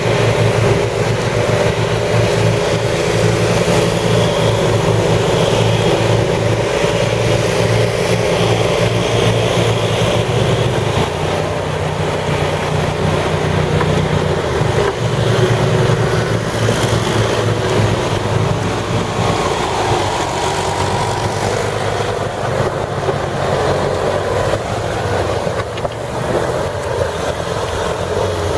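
Engine of an amphibious six-wheel ATV running steadily as it drives along, a continuous loud drone with small changes in speed.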